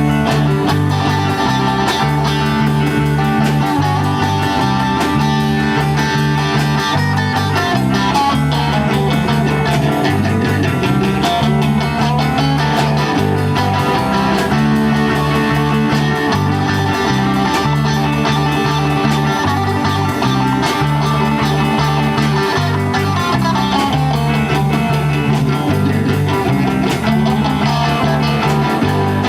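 Band music with no singing: guitar playing over a bass line that repeats in a steady pattern, in a rock or blues style.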